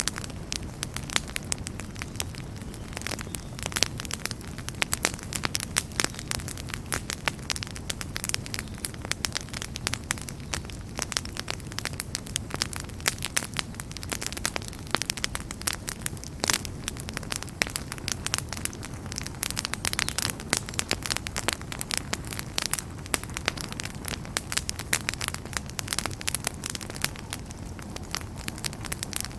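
Wood fire burning in a fireplace, with dense, irregular crackles and pops over a steady low rumble of flames.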